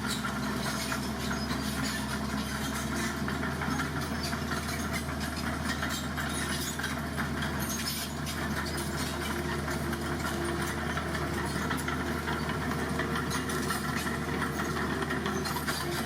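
Heavy vehicle's diesel engine running steadily at an even, idle-like speed.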